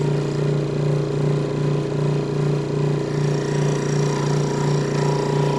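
Electric power saw running steadily, its motor giving a constant hum with a slight regular pulsing.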